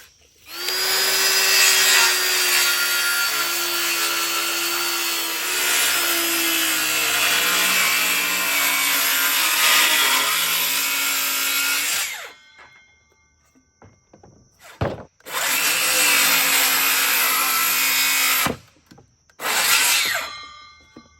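Cordless circular saw cutting through wood, with a blade the builder thinks is about worn out. It makes one long cut of about twelve seconds, then two shorter cuts, and the motor's pitch sags and wavers as the blade loads up in the wood.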